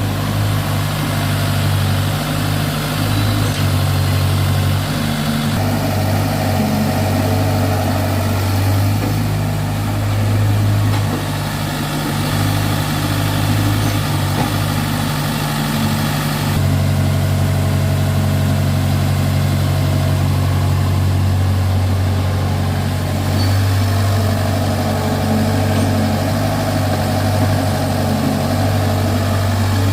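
Sonalika DI-35 RX tractor's diesel engine running steadily with a low, even hum. The sound shifts abruptly a little past halfway.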